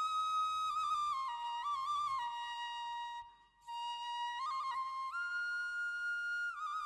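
Background music: a solo flute plays a slow melody of held notes with quick ornamental turns, breaking off briefly about three seconds in.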